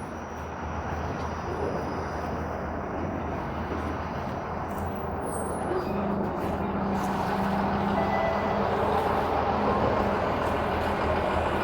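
City street traffic: a heavy vehicle's engine running over the steady noise of passing traffic, growing slowly louder.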